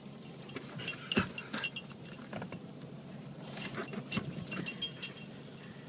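Small metal pieces jingling and clinking in two bursts, the second starting about a second after the first dies away, over a steady low hum.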